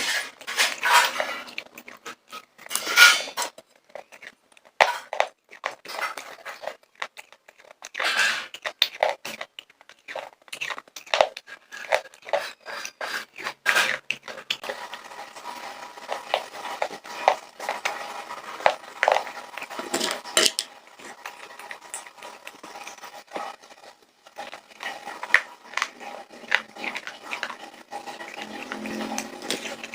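Popcorn being eaten: irregular crunching and crackling with clinks and rattles of popcorn handled in a hard bowl, many short clicks close together.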